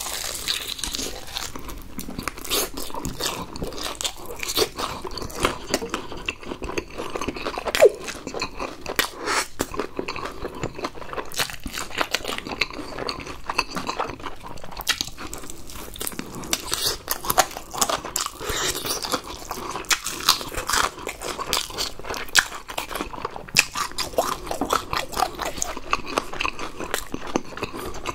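Close-miked biting, crunching and chewing of crispy fried chicken, with many irregular crackles of the batter coating between the teeth.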